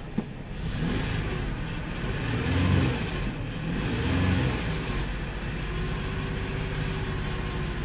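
2002 Ford Explorer engine running rough with a bad misfire, revved up and back down twice, about two and a half and four seconds in. There is a single sharp click just after the start.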